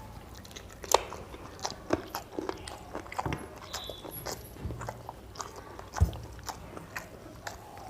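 A man eating chicken curry with rice by hand, close to the microphone: wet chewing and lip smacks with small clicks, and a few soft knocks, as he bites meat off the bone.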